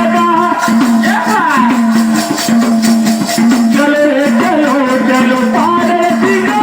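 Voices singing a Marathi devotional song to Mahadev (Shiva), with steady jingling hand percussion keeping the beat.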